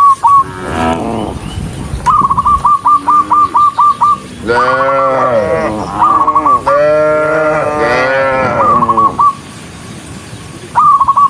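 Cattle mooing several times, long calls that rise and fall in pitch, some overlapping. Between the moos come runs of quick, high whistled notes, about eight in a row a couple of seconds in.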